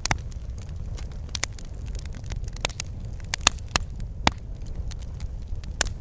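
Wood fire burning in a fireplace: a low steady rumble of flames with sharp crackles and pops at irregular intervals, a few each second.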